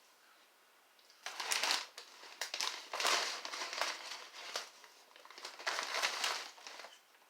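Crinkly snack-chip bag of veggie crisps being handled and crumpled, in three bursts of crackling.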